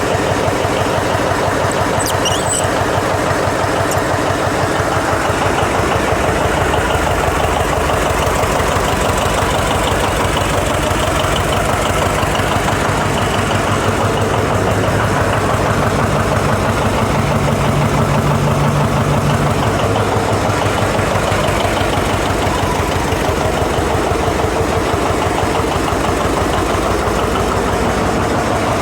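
Engine of a freshly rebuilt John Deere 720 diesel two-cylinder tractor, turning over and running without a break during its first start attempt after the rebuild. The steady, even pulsing does not stop.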